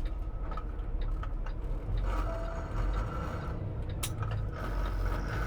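Semi-truck engine running low and steady, heard from inside the cab, with scattered clicks and light rattles; one sharp click about four seconds in.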